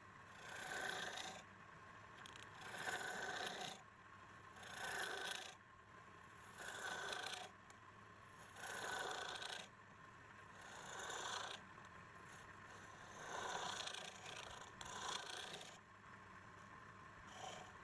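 Repeated hand scraping strokes, about one every two seconds, each lasting about a second, as of abrasive or a tool being rubbed back and forth over metal or wood.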